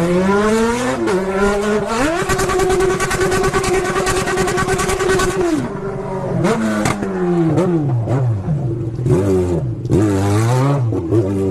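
Motorcycle engine revving hard: it climbs over the first couple of seconds and is held high for about three and a half seconds, then drops back, followed by a series of quick throttle blips rising and falling.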